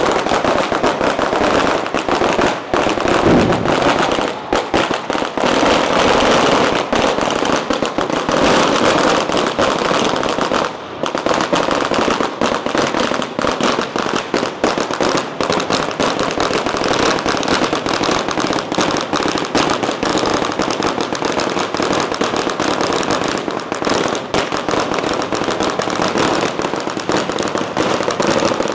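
Long strings of firecrackers going off in a dense, continuous crackle of rapid pops, with a brief lull about eleven seconds in.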